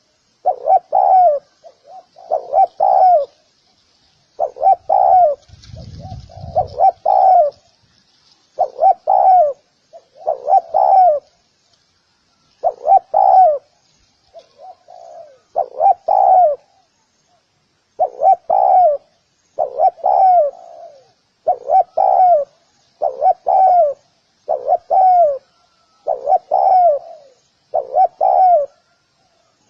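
Spotted dove cooing over and over: short coo phrases repeated every second or two, with a brief low rumble about six seconds in.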